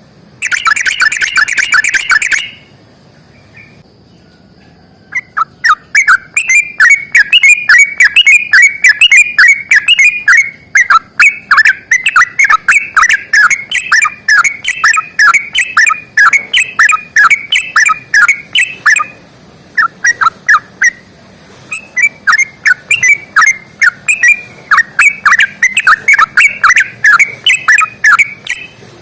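Yellow-vented bulbul (trucukan) singing its long rapid song. A short dense chattering burst comes first, then a long run of quick clear notes at about three a second. After a brief pause the run starts again.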